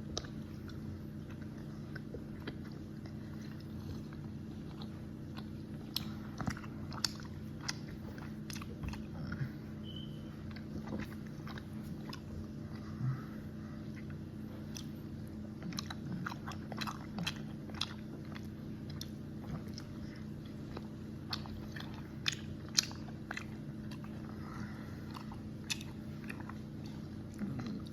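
A person chewing gummy candies (Haribo gummy dinosaurs) close to the microphone: soft, irregular wet mouth clicks and smacks over a steady low hum.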